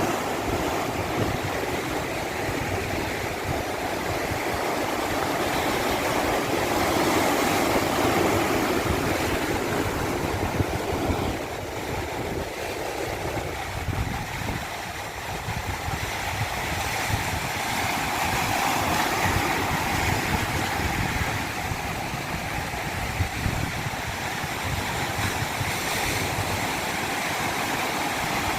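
Rushing water, a continuous roar of waves or a cascading stream, swelling and easing over several seconds with no pauses.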